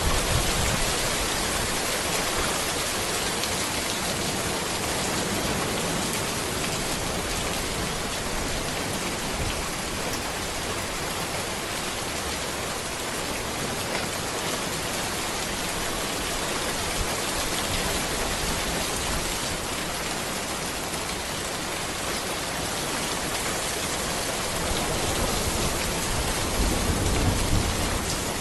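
Steady rain falling on a road and surrounding trees, a dense, even hiss, with low rumbles about a second in and again near the end.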